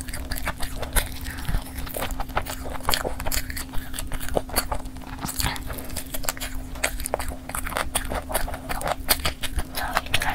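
Close-miked eating of sauce-coated fried chicken: wet chewing, lip-smacking and tearing of the meat, heard as a dense run of short irregular clicks and smacks. A steady low hum runs underneath.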